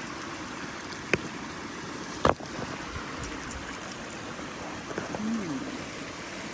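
Shallow creek water running steadily over rocks, with two sharp knocks about a second apart near the start, like stone striking stone.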